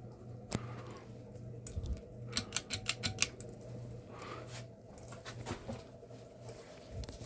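Sportscast NASCAR 42-inch ceiling fan's motor humming steadily, with a run of sharp, irregular clicks and rattles about two to three seconds in.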